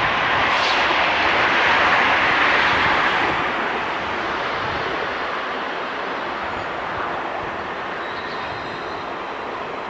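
Train running past on the line, a steady noise that is loudest about two seconds in and then slowly fades as it moves away.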